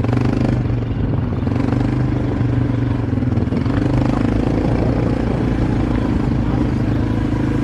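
Small vehicle engine running steadily at a fairly constant speed, close and loud.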